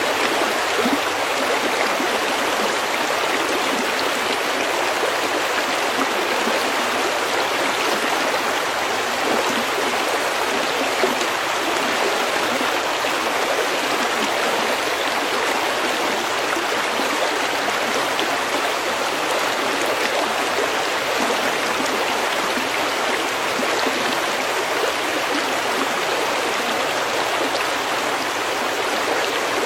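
A brook flowing steadily over stones, with an even rushing and fine gurgling.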